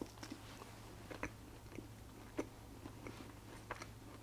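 Close-miked chewing of a mouthful of fast food: irregular soft wet clicks and small crunches over a faint low hum.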